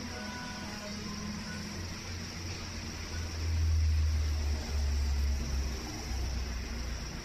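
Ventisol ceiling fan running, a steady hiss with a low rumble that swells about three seconds in and eases off near six seconds.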